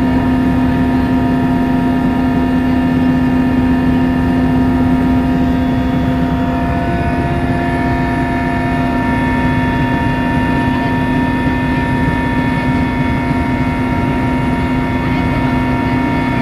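Helicopter in flight heard from inside the cabin: a loud, steady drone of engine and rotor with a constant low hum and a set of steady higher tones.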